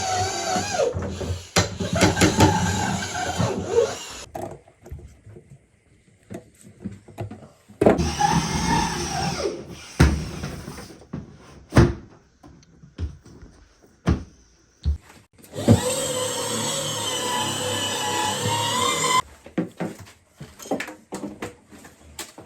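An electric power tool's motor run in three bursts of a few seconds each, its whine wavering in pitch, with single sharp knocks in the gaps between runs.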